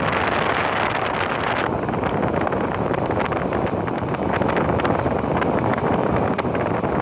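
Passenger train running at speed, heard from inside the carriage: a steady rumble and rush of wheels on the track with frequent sharp clicks and rattles.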